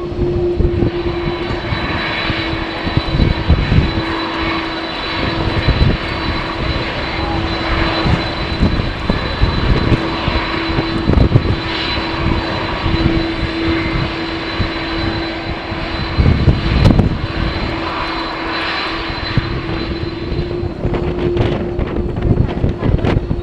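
Airliner's jet engines running with a steady whine, the high whine cutting off near the end, under heavy gusts of wind buffeting the microphone.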